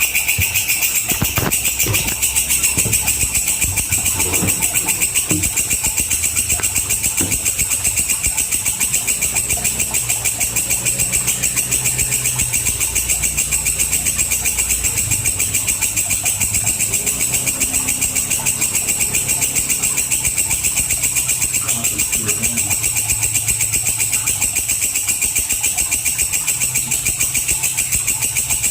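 Walang kecek, an Indonesian singing insect, calling in a continuous, fast-pulsing, high-pitched buzz that holds steady throughout.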